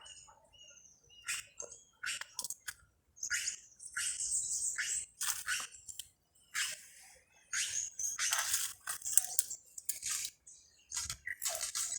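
Small birds chirping and calling, a rapid string of short high-pitched notes in clusters with brief pauses between them.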